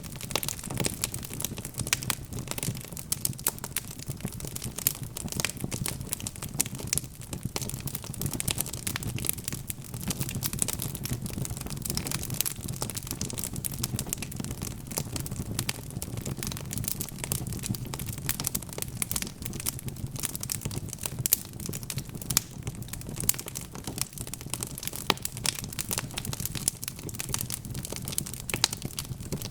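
Wood fire crackling steadily: a dense stream of small pops and snaps over a low, even rumble.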